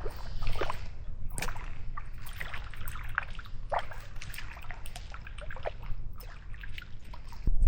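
Water splashing and dripping in irregular small spurts as a small hooked fish is brought in and lifted from the water.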